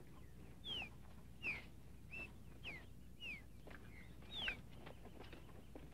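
Quiet bird calls: about seven short whistled notes, most sliding down in pitch, over a faint low hum, with soft footsteps on dirt.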